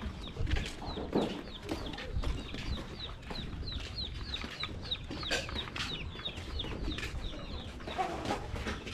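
Chickens clucking, with a quick run of short, high, falling peeps, about three or four a second, through the middle few seconds. Footsteps knock on loose wooden plank boards throughout.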